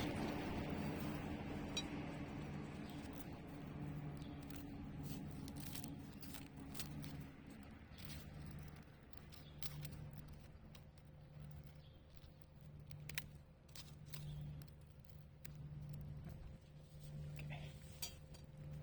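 Wood fire in a fire pit burning dry thistle plants, with scattered crackles and sharp pops over a low hum that swells and fades about once a second.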